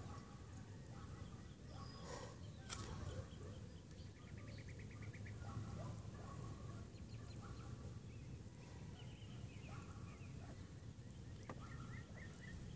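Faint small birds chirping, with one rapid trill about four seconds in, over a steady low outdoor rumble.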